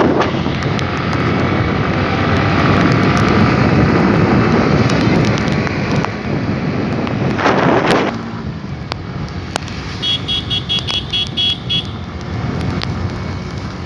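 Road and traffic noise from a ride in the rain: a loud rush of vehicle and wind noise that drops off abruptly about eight seconds in, then quieter running noise with a quick series of about eight high beeps around ten seconds in.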